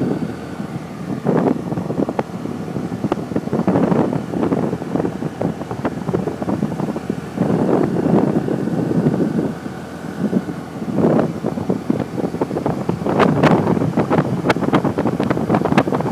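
Wind buffeting the microphone of a moving motorbike, a loud gusting rumble with vehicle noise underneath. Sharp crackles of wind hitting the microphone come thick in the last few seconds.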